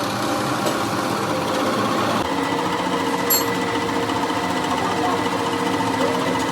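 Workshop machine running steadily with a rapid mechanical clatter; about two seconds in, a steady whine joins it.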